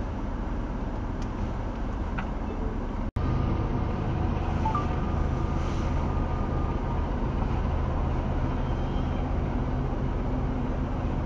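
Freight train of tank cars rolling through a grade crossing, a steady low rumble heard from inside a car waiting at the crossing. The sound cuts out completely for an instant about three seconds in.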